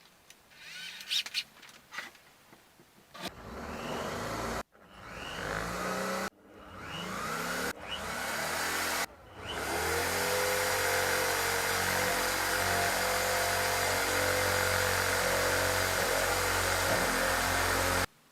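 Electric drill motor pulsed in four short spin-ups, each rising in pitch and stopping after a second or so, then held running steadily for about eight seconds before it stops abruptly. A few sharp clicks and knocks come in the first seconds.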